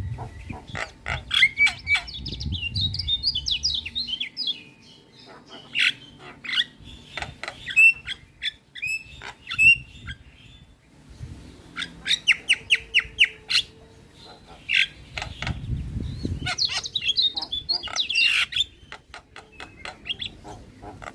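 Javan myna (jalak kebo) singing: bursts of harsh squawking chatter, rapid clicks and short whistled notes, in spells broken by brief pauses, with a low rumble underneath at times.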